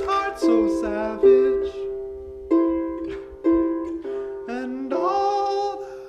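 A plucked string instrument playing a song, single notes and chords struck about once a second and left to ring, with a voice singing over it at times.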